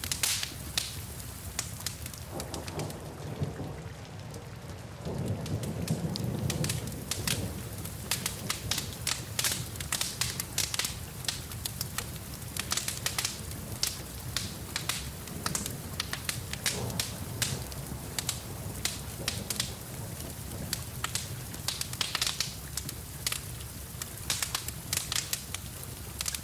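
Wood fire crackling in a fireplace, with dense sharp pops over a steady hiss of falling rain. A low rumble swells up twice, about three and about five seconds in.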